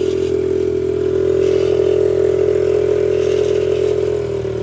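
Apollo 110cc dirt bike's single-cylinder four-stroke engine idling steadily and extremely loud.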